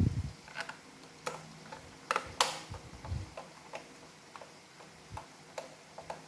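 Irregular clicks and light knocks of hard plastic robot-vacuum parts being handled and fitted together during reassembly. There are a few dull thumps, and the sharpest click comes about two and a half seconds in.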